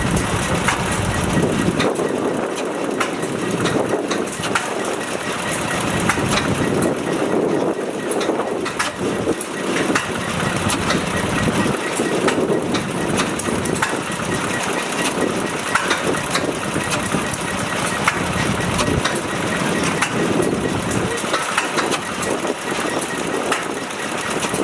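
Clutterbuck oil engine running steadily, with frequent sharp clicks and knocks from its working parts.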